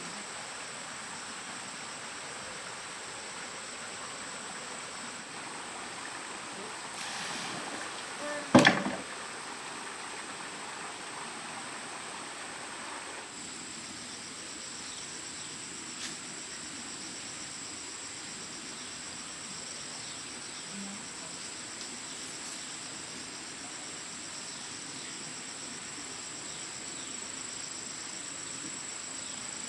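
Insects droning steadily at a high pitch, with one sharp knock about eight and a half seconds in, the loudest sound.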